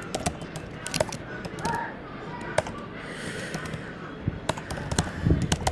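Computer keyboard typing: irregular single keystrokes with pauses, quickening into a faster run of keys near the end.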